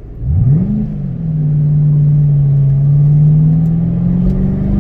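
2006 Mustang GT's 4.6-litre V8 under aggressive throttle: it revs up sharply in the first second, then pulls steadily under load, its pitch creeping up near the end.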